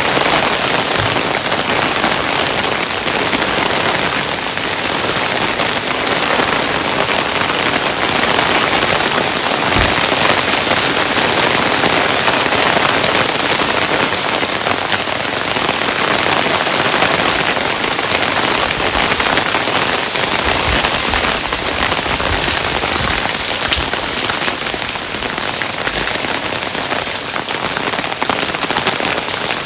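Hailstones falling steadily: a dense, even hiss of many small impacts, with a few brief low thuds scattered through it.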